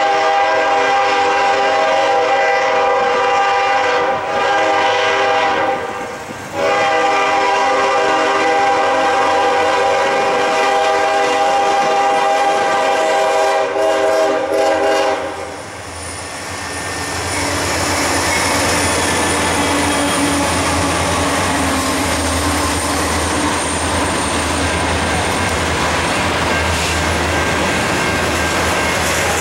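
Norfolk Southern diesel freight locomotive's air horn blowing long blasts for a grade crossing, with short breaks, for about the first half. Then the locomotives pass with a deep engine rumble, and double-stack intermodal cars roll by with clickety-clack wheel noise.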